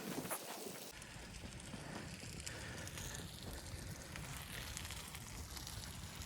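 Wood fire crackling in a wood stove, with scattered small snaps. About a second in, a low wind rumble comes in and carries on under the crackle.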